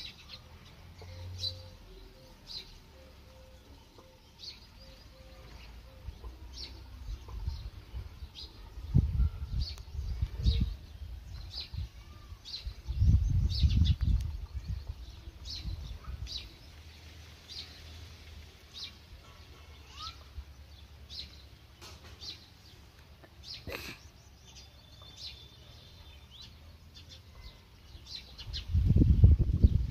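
Small birds chirping in short high calls again and again, with bursts of low rumble on the microphone, the loudest near the middle and near the end, and a single sharp click about three quarters of the way through.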